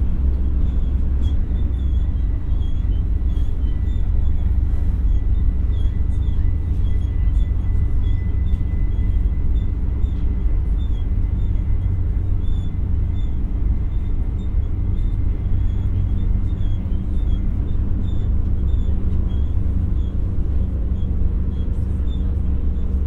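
Running noise of an X60 (Alstom Coradia Nordic) electric commuter train, heard from on board: a steady low rumble with a faint high whine held for much of the stretch and light scattered ticks.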